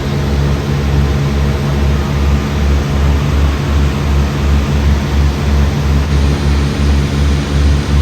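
Small propeller airplane's engine and propeller heard from inside the cabin: a steady drone with a low pulsing beat about twice a second.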